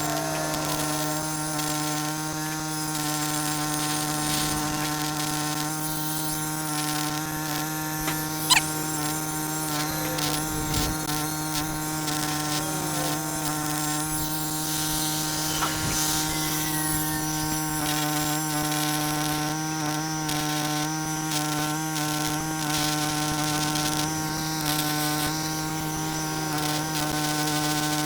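Steady machine hum with crackling over it, from welding work on a steel pole, and one sharp click about eight seconds in.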